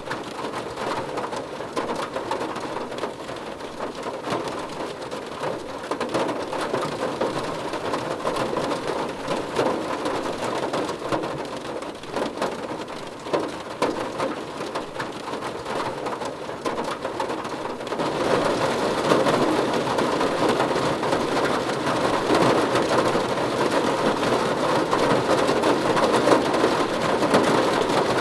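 Steady rain with a dense patter of individual drops, growing louder and brighter about eighteen seconds in.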